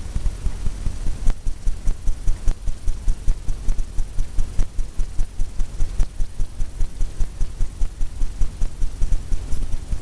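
Fan brush tapping and stroking paint onto a stretched canvas, the canvas thumping dully like a drumhead in a steady rhythm of about three strokes a second.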